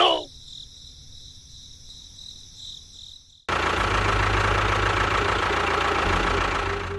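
A faint steady high-pitched whine, then about halfway through a motor starts running abruptly: a loud steady rumble with a low hum.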